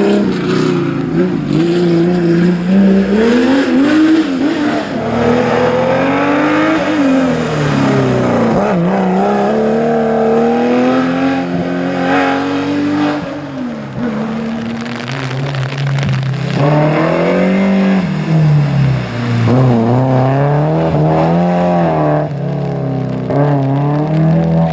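Historic rally car engines at full throttle on a special stage, the pitch climbing and dropping again and again as the cars accelerate, shift gears and brake for corners. A lower-pitched engine takes over a little past halfway through.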